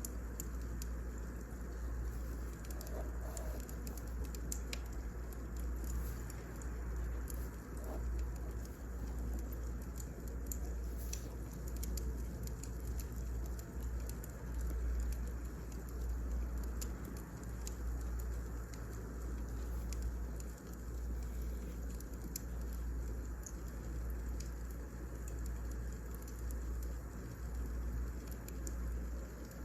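Firewood burning in a fireplace, crackling and popping irregularly over a low steady rumble.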